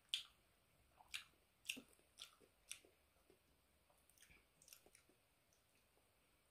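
Mouth sounds of someone eating mango: sharp, wet clicks and smacks about every half second while chewing, fainter from about four seconds in.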